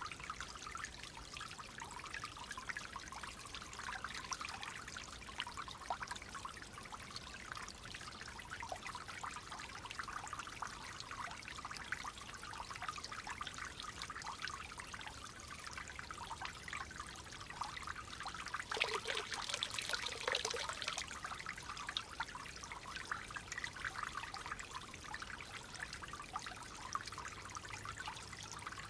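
Clear running water trickling and babbling steadily, with a louder gush for a couple of seconds about two-thirds of the way in.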